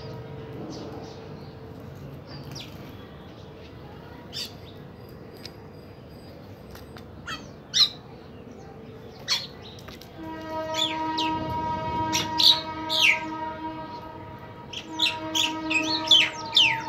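Birds giving short, sharp chirps and calls, which come more often in the second half. Behind them a long, steady horn sounds briefly at the start and again from about ten seconds in.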